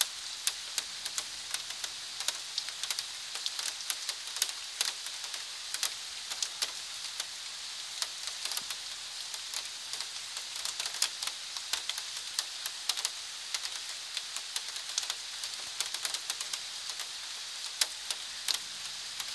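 Steady rainfall hiss with frequent irregular sharp taps of drops landing close by.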